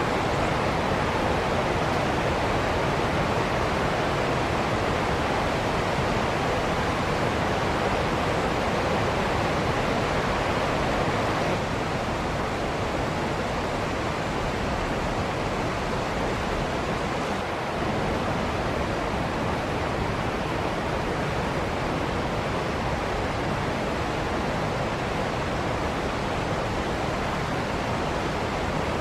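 Waterfall: a steady, even rush of falling water, dropping slightly in level about twelve seconds in.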